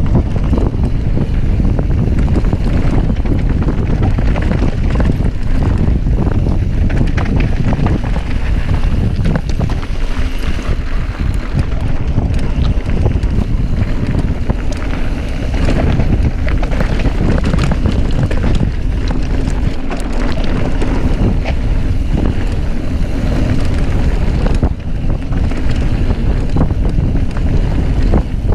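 Wind rushing over the microphone of a camera carried on a bike descending a trail at speed, with scattered rattles and knocks from the bike over the ground.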